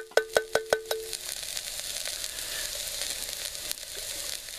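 Chopped vegetables sizzling in hot olive oil in the aluminium pot of a Polish army wz. 23/31 mess kit, a steady hiss. In the first second a metal spoon taps the rim of the pot about six times in quick succession, each tap ringing briefly.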